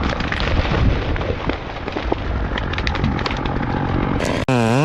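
Loud, rough crackling noise with scattered sharp cracks and knocks, from a tree being sawn and its wood breaking. Near the end an abrupt cut brings in a steady, pitched engine note: a chainsaw running.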